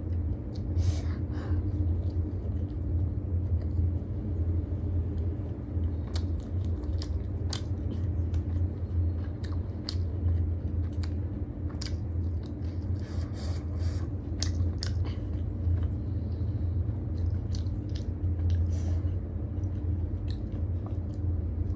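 Close-miked chewing of steamed momos and chow mein: irregular wet mouth clicks and smacks throughout, over a steady low rumble.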